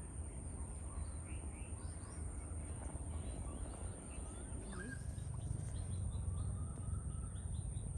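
Several wild birds chirping and calling in short scattered notes over a steady low rumble.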